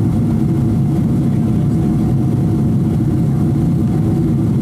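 Boeing 777-200 cabin noise: the jet engines and airflow heard from inside the passenger cabin as a steady, loud low rumble with a faint steady whine above it.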